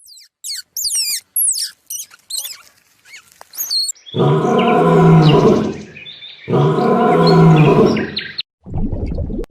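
Quick, high chirping bird calls that glide up and down, then two long, deep animal calls of about two seconds each, one after the other.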